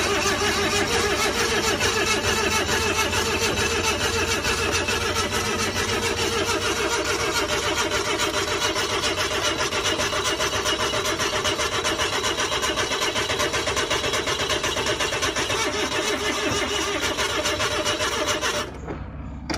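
Suzuki DA64V van's small three-cylinder engine cranking on its starter motor, a steady fast rhythmic churn for about nineteen seconds without catching, then cutting off near the end. This is the crank-no-start of an engine that has been under floodwater.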